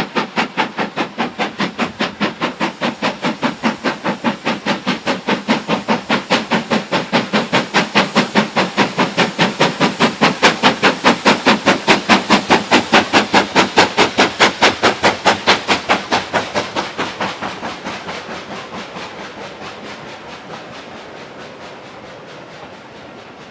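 Steam locomotive working hard, its exhaust beating rapidly and evenly. It grows louder as it approaches, then fades away as it draws off in the last few seconds.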